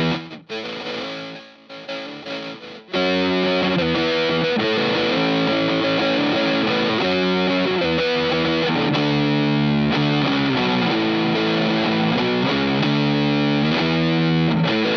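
Electric guitar, a 2006 Gibson SG GT, played through a Stone Deaf Warp Drive high-gain distortion pedal: heavily distorted riffing. It is stop-start chords with short breaks for the first three seconds, then continuous sustained playing.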